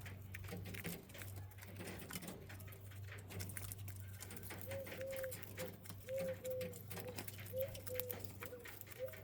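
Quail pecking and scratching about the aviary floor, a scatter of small clicks, and from about halfway a run of short, soft low calls repeated about twice a second.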